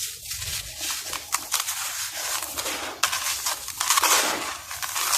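Dusty molded blocks of chalk- or cement-like material crumbling, with a gritty crackle of many small breaks that thickens into a denser crunch about three seconds in.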